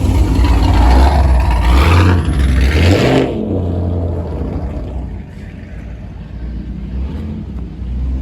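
Loud car engine revving, its exhaust swelling for about three seconds and then dropping off sharply, leaving a lower, steady rumble.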